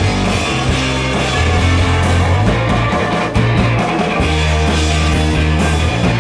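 Live rock band playing an instrumental passage with no singing: guitar over a bass line that changes note every second or so, with steady drum and cymbal hits.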